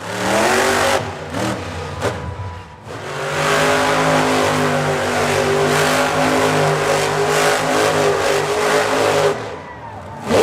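Monster truck engine revving hard: it climbs in the first second, is broken by a couple of sharp knocks, then runs at high revs for about six seconds before letting off near the end, where a loud bang follows.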